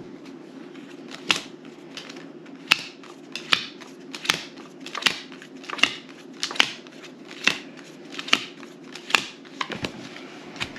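Playing cards being laid down or flicked one at a time, a sharp snap about every second, over a steady low hum.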